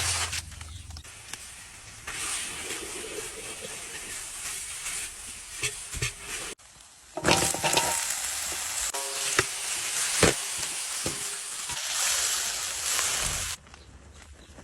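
Chicken legs sizzling in hot oil in a pan, with scattered clicks and scrapes of a utensil stirring. The sizzle cuts off abruptly about six and a half seconds in, returns louder a moment later, and drops away about a second before the end.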